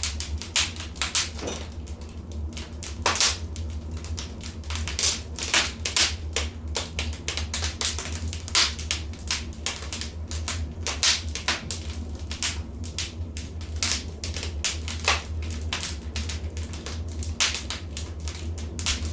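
Wood fire crackling in a fireplace: irregular sharp snaps and pops, some louder than others, over a steady low rumble.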